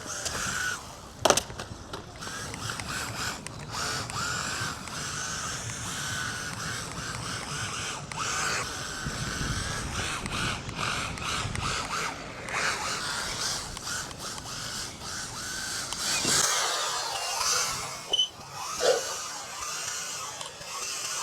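Brushless electric motor of a 1:14 scale MJX RC rally car whining, its pitch rising and falling over and over as it accelerates and backs off. There is a sharp knock about a second in.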